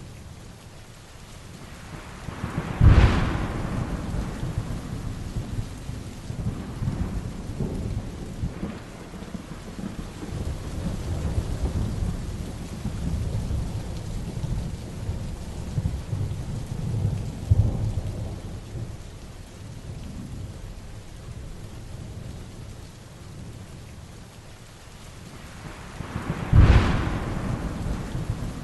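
Heavy rain falling steadily through a thunderstorm. Thunder cracks sharply twice, about three seconds in and again near the end, each crack followed by a long low rumble.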